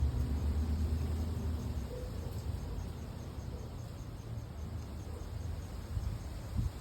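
Outdoor ambience: a steady, high-pitched pulsing trill of insects over a low rumble that is strongest in the first two seconds and then weakens.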